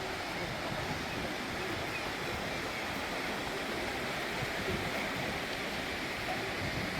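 Steady wash of surf breaking on a sandy beach, an even hiss with no distinct waves standing out.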